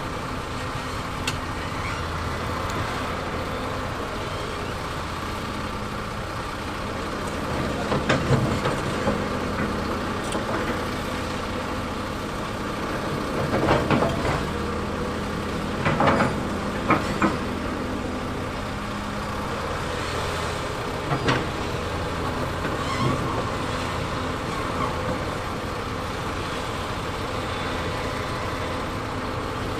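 Heavy diesel earthmoving machinery running steadily, with bursts of clanking and knocking about a quarter, half and two-thirds of the way through.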